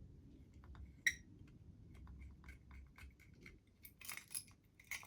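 Light metallic clicks and clinks of small parts being worked on a Märklin HR 800 N model locomotive while its housing screw fails to catch its thread: one sharp click about a second in, a run of soft ticks, and a brief rattle of clicks near the end.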